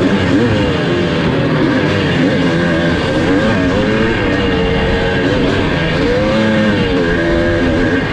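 1982 Husqvarna 430 two-stroke single-cylinder motocross engine under racing load, its pitch rising and falling again and again as the throttle is worked on and off, over wind and track noise.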